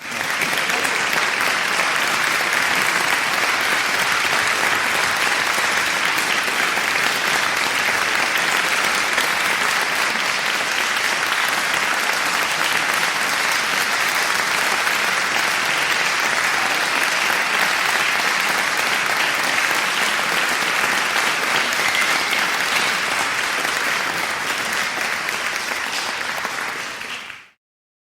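Audience applause: dense, steady clapping that starts abruptly at full strength and holds evenly, then fades out quickly near the end.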